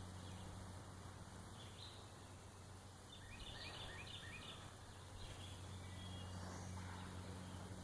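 A faint outdoor background with a steady low hum, and a short run of small bird chirps about three to four seconds in.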